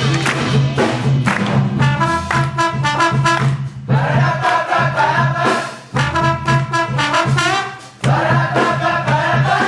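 Jazz big band playing: the brass section sounds long held chords over a steady, pulsing bass line and drums. The chords break off briefly twice, near the middle and again a few seconds later.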